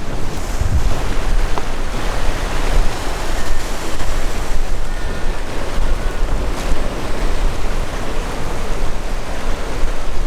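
Wind buffeting the microphone over the steady wash of sea waves, a constant rushing noise with a deep rumble.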